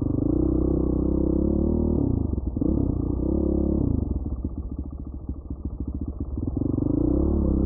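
Dirt bike engine under way, its pitch rising and falling with the throttle. About four seconds in it drops off throttle to a low, uneven burble of separate firing pulses for a couple of seconds, then revs up again near the end.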